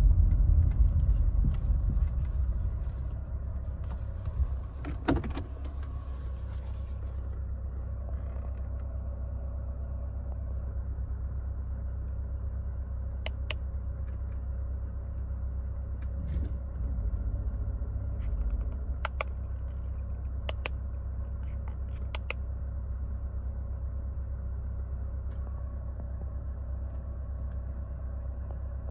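2003 Mercedes-Benz W211's engine idling steadily, a little louder for the first couple of seconds, with a few sharp clicks in the second half.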